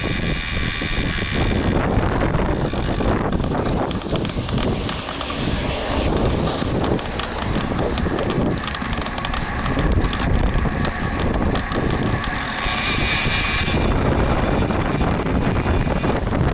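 Wind buffeting the built-in microphone of an action camera mounted on a road bike, a dense low rumble over tyre and road noise while riding in rain and strong wind. A brighter hiss rises for a second or two about five seconds in and again near the end.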